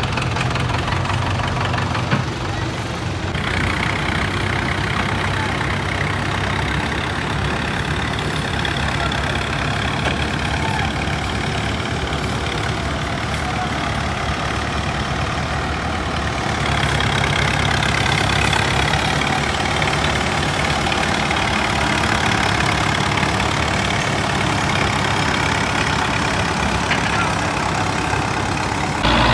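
Tractor diesel engine running steadily, getting louder about halfway through.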